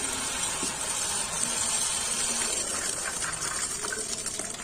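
Water pouring steadily into a bowl of bitter leaf, adding fresh water for another rinse, easing off a little near the end.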